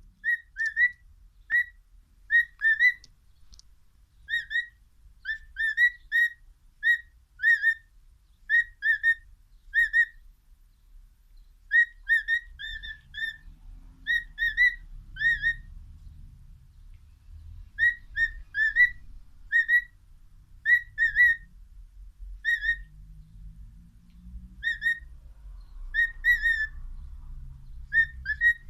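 Cockatiel singing: short whistled notes, each a quick slide in pitch, strung together in phrases with brief pauses between them.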